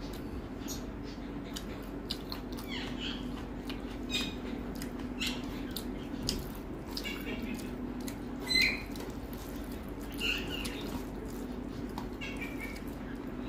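Close-miked eating sounds: wet chewing, lip smacks and mouth clicks as rice and curry are eaten by hand, with short squelchy chirps scattered through, the loudest about eight and a half seconds in. A steady low hum runs underneath.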